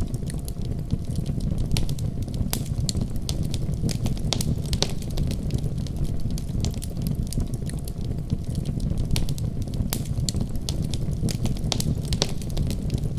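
Wood fire burning with a steady low roar and many sharp pops and crackles scattered throughout.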